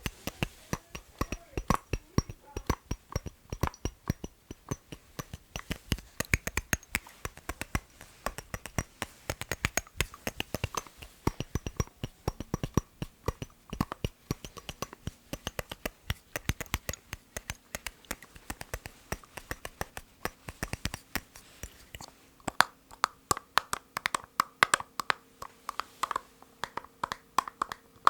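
Fingertips and nails tapping rhythmically on an object, several quick taps a second. About three quarters of the way through the taps turn brighter and a faint steady ring lingers under them.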